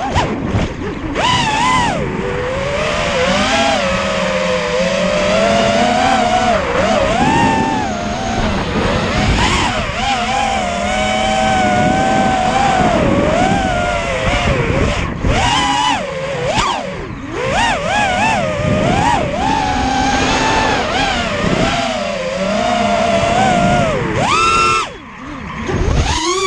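Brushless motors of an FPV racing quadcopter whining, the pitch rising and falling quickly with throttle changes. Near the end the sound drops away briefly, then picks back up.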